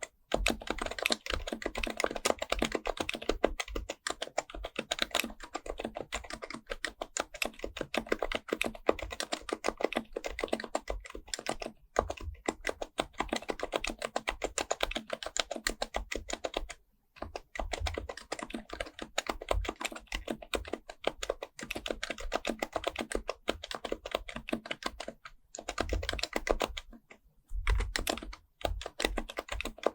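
Fast, continuous typing on an HHKB Professional Type-S keyboard, its silenced Topre electrostatic-capacitive keys giving soft, muted clacks. There are a few brief pauses, the clearest about 17 seconds in and again near 27 seconds.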